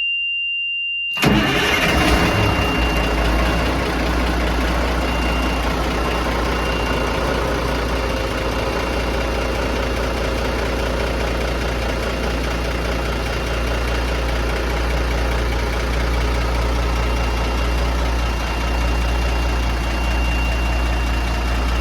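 A steady high warning buzzer, then about a second in the M923A1 truck's Cummins inline-six diesel cranks, catches and settles into a steady idle, with the buzzer's tone still faintly heard under it.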